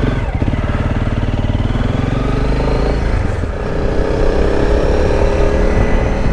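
Motorcycle engine running under way, its pitch climbing slightly a few seconds in as it accelerates.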